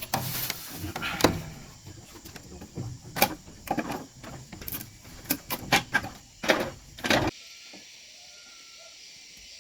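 Irregular knocks, clatter and scraping of hands-on work, stopping abruptly about seven seconds in, after which only a faint steady high hiss remains.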